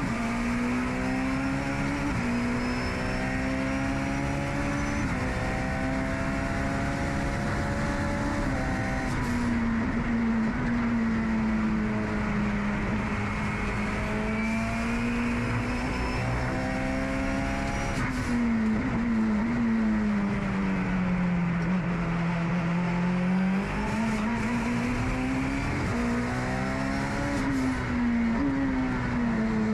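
Turbocharged Honda K22 engine of a time-attack Honda NSX at racing speed. The pitch climbs through the gears with quick upshifts in the first few seconds, sags under braking and downshifts, then rises again under hard acceleration out of the corners.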